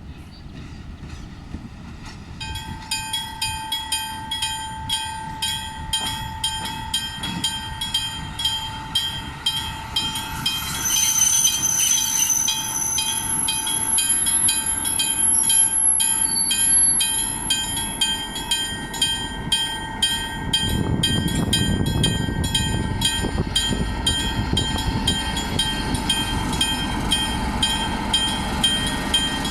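Level-crossing warning bell ringing rapidly and evenly from about two seconds in, over the steady squeal of the train TMX 1042's brakes. From about twenty seconds in the train rumbles past on the rails.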